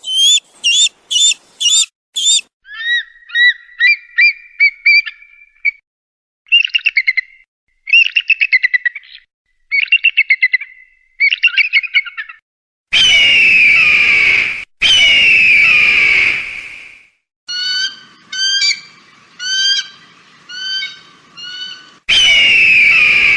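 Eagle calls: runs of short, high, repeated piping and chattering notes, then two long downward-sliding screams about halfway through. A further run of short notes follows, and another scream comes near the end.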